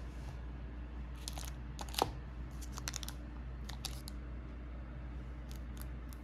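Short dry clicks and rustles, like something being handled close to the microphone, the loudest about two seconds in, over a steady low hum.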